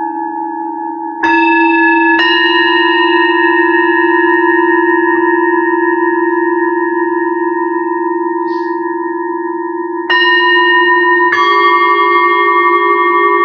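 Singing bowls of different pitches struck one after another and left to ring on, their tones overlapping. There are four strikes: two about a second apart near the start, and two more about ten seconds in.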